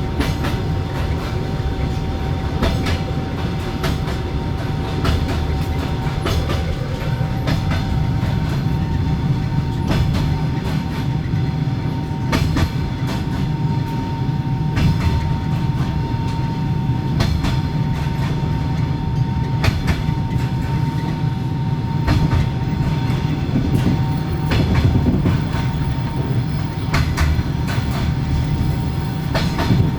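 Passenger railway carriage running at steady speed: the carriage's generator gives a steady whine under the low rumble, with irregular clicks of the wheels over rail joints. Heard inside a compartment with its door and the corridor window open.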